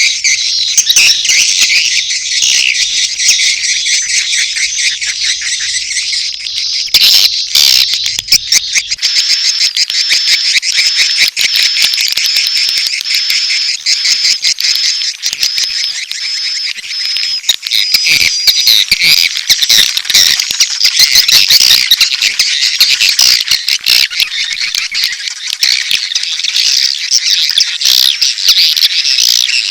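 Edible-nest swiftlets chattering and twittering in a dense colony chorus with rapid clicks, a mix of courtship calls and chick calls. This is a swiftlet lure recording, played to draw swiftlets into a nesting house.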